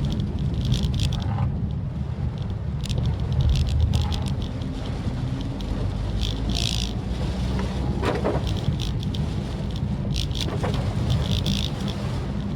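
Maruti Suzuki Swift Dzire car driving, with a steady low rumble of road and engine noise. Short hissing bursts come and go over it.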